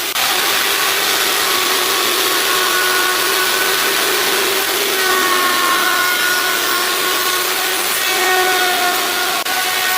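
Chainsaw cutting into a log, running steadily under load, its pitch shifting every few seconds as the cut goes on.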